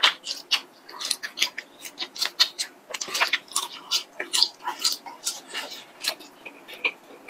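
Close-up mouth sounds of a person eating a chewy latiao (spicy gluten strip): wet chewing and lip smacks in a dense, irregular run of short clicks.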